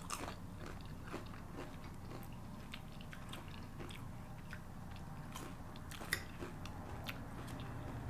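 Close-miked chewing and biting of food: irregular small wet clicks and mouth sounds, with one sharper click about six seconds in.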